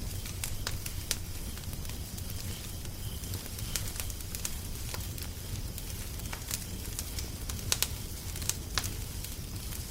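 Wood fire crackling, with irregular sharp pops and snaps over a steady low rumble; the loudest few pops come close together near the end.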